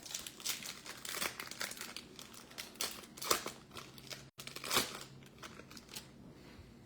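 Foil trading-card pack wrapper crinkling and tearing as the next pack is opened and handled, in a run of irregular crackles.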